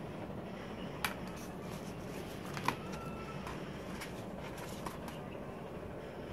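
An album package and its cards being handled, with three sharp taps or clicks over a steady low room hum.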